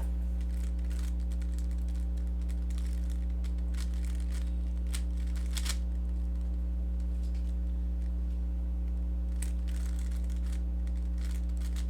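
Rubik's cube being turned by hand: scattered soft plastic clicks and clatter of its layers, over a steady electrical hum.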